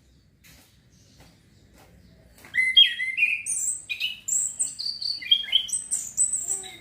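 Male orange-headed thrush singing, a bird still learning its song: after a quiet start, a fast run of varied sliding notes begins about two and a half seconds in and keeps going.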